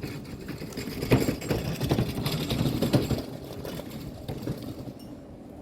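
A small motor running with a rapid mechanical rattle, with louder knocks and clatter over the first three seconds, then fading toward the end.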